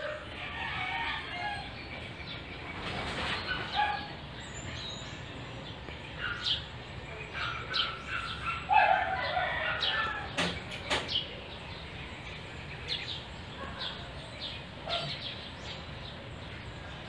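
Bird calls, short scattered chirps and calls, some fowl-like, over a steady low background noise.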